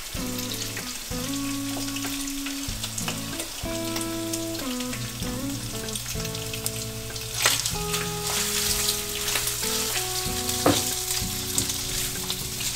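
Chopped lobster meat sizzling in hot garlic and olive oil in a frying pan as it is tipped in and stirred with a spoon, with a couple of sharp clicks in the second half. Background music plays underneath.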